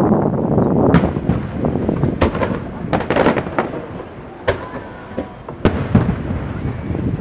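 Fireworks display: a run of sharp bangs and crackling reports over a continuous low rumble, densest and loudest in the first second or so.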